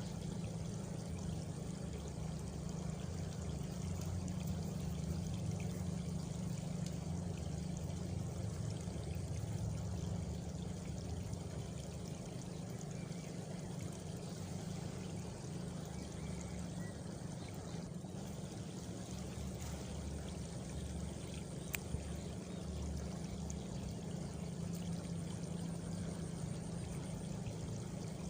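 Steady rushing noise like running water, with a faint high cricket trill in the second half and a single sharp click about 22 seconds in.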